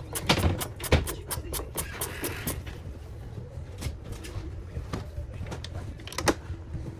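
A run of sharp clicks and knocks from hands and tools working on small parts, thickest in the first two and a half seconds, then sparser, with another loud knock about six seconds in.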